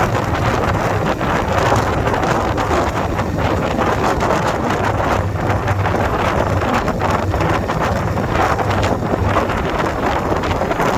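Wind buffeting the microphone, the loudest sound, over the steady low drone of a 2021 Indian Scout Bobber's V-twin engine while riding.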